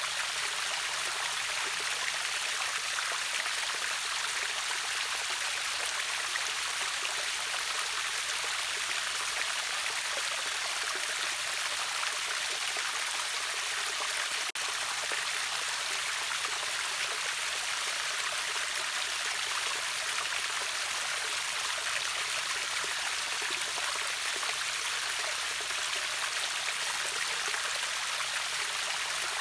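River waterfall: water rushing and splashing in a steady, unbroken hiss, mostly high with little deep rumble.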